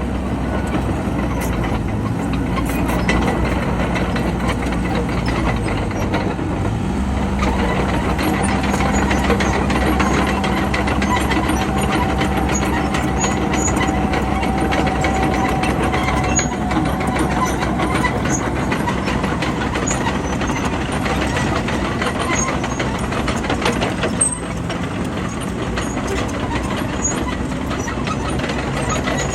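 Bulldozer's diesel engine running steadily under work, with a continuous fine clatter over it and a faint whine that comes in for a few seconds and fades.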